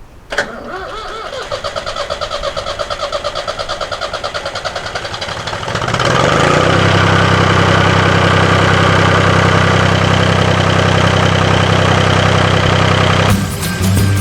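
David Brown tractor engine being started on a newly installed battery and new ground cable. The starter clicks in, then cranks the engine in a quick, even rhythm for about five seconds. The engine catches about six seconds in and runs steadily.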